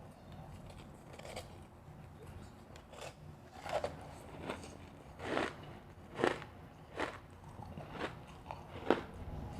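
Close-up chewing and crunching of refrozen powdery freezer ice, about one crisp crunch a second in the second half.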